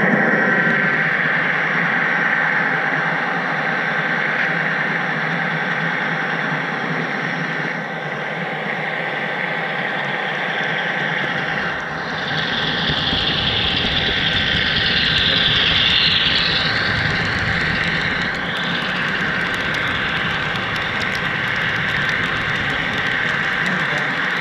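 HO scale model freight train running on the layout, heard from a camera riding on the caboose: a steady mechanical rolling noise. A deeper rumble comes in about halfway through, and a higher hiss rises over it for several seconds before fading.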